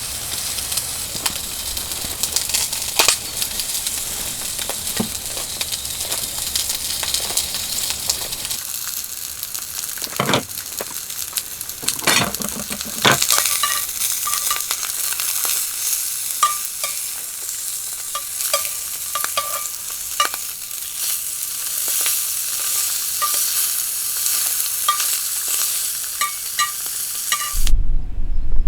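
Food sizzling as it fries in a pan, with a few knocks and scrapes of a utensil stirring it partway through. Near the end the sound cuts abruptly to a low rumble.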